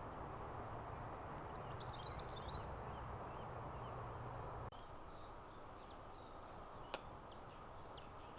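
Outdoor woodland ambience: a steady background rush with small birds chirping, a cluster of quick chirps early and scattered calls later. A low rumble drops away about halfway through, and there is a single sharp click near the end.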